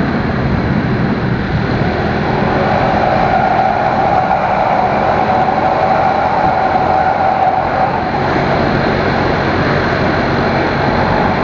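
Steady rush of wind and road noise from a moving motorcycle, with a low engine hum beneath it and a faint steady whine from about two to eight seconds in.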